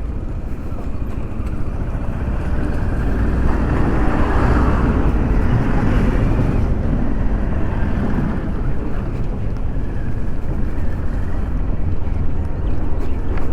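Wind rushing over the microphone of a moving motorcycle, with the engine and road noise underneath; it swells louder about four seconds in, then settles.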